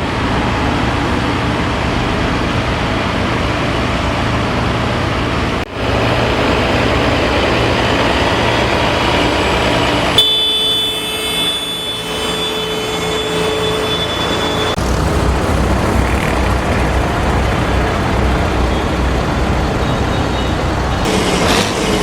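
Farm tractors' diesel engines running as the tractors drive along the street, a steady low engine hum that changes abruptly a few times. For about five seconds in the middle, a steady high-pitched tone sounds over quieter engine noise.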